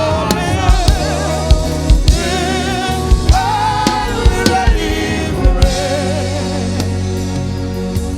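Gospel singing with a live band: voices hold wavering, sustained notes over bass, keys and drum kit hits. The drums drop out about six seconds in, leaving held chords.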